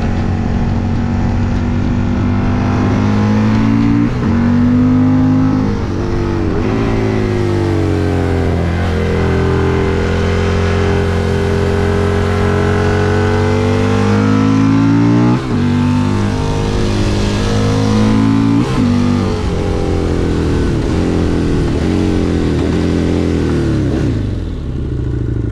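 Husqvarna Nuda 900's parallel-twin engine, heard onboard while riding, revving up and dropping back repeatedly through the gears, with brief breaks in the sound at the gear changes. The revs fall away near the end.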